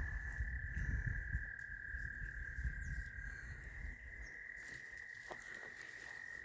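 Frogs calling in one steady, unbroken high trill held on a single pitch, over a faint low rumble and a few soft clicks.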